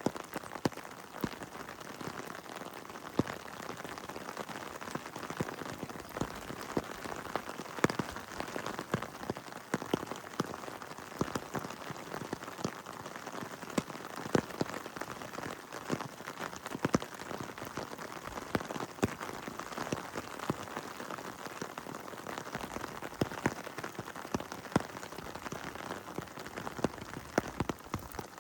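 Heavy rain falling steadily, a continuous hiss with many sharp, irregular drop hits close by.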